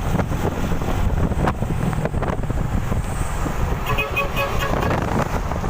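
Steady low traffic and wind rumble, with a quick run of short horn toots, about half a dozen in under a second, about four seconds in.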